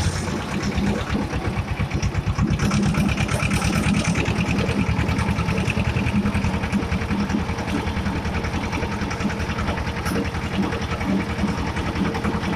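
Escort 335 tractor's diesel engine running with a steady, rapid beat of firing pulses.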